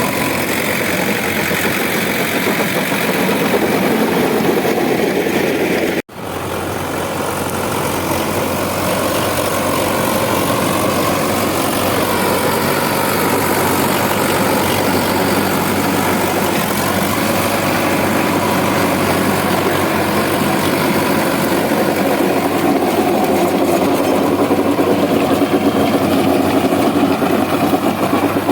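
Sonalika DI 750 tractor's diesel engine running steadily at low revs. The sound drops out for an instant about six seconds in and comes straight back.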